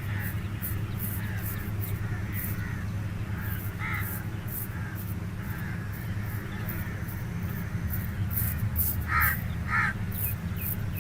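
Razor scraping across chest skin in repeated short, crisp strokes over a steady low hum. Three short calls sound in the background, one about four seconds in and two close together near the end.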